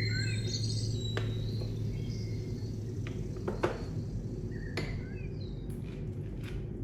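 Birds chirping briefly over a low steady hum, with a handful of sharp light clicks and taps; the loudest tap comes about three and a half seconds in.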